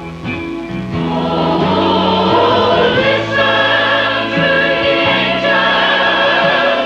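Church choir singing in parts with instrumental accompaniment, the voices swelling fuller about a second in.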